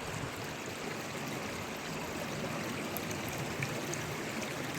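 River water running over rocks: a steady flowing and trickling rush, with nothing changing.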